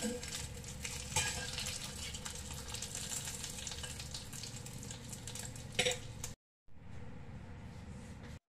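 Minced pork patty sizzling in oil in a stainless steel frying pan, with metal tongs and a spatula clicking against the pan a few times, most plainly about a second in and near six seconds. The sound cuts out briefly about six and a half seconds in, then quieter sizzling goes on.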